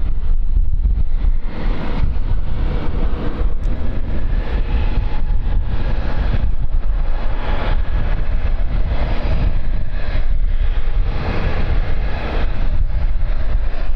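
Wind buffeting the microphone: a heavy, gusty low rumble over a steady rushing noise.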